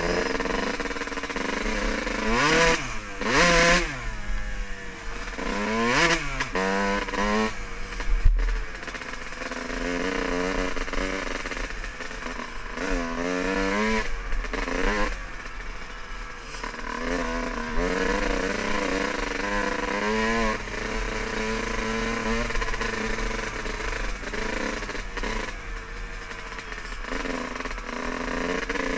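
Dirt bike engine revving up and down again and again, its pitch rising and falling, with a single sharp knock about eight seconds in.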